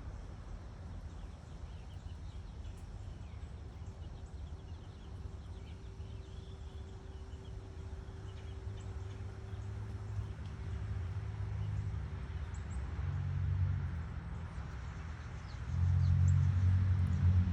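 Strong wind buffeting the microphone in uneven gusts, growing louder through the second half and loudest near the end.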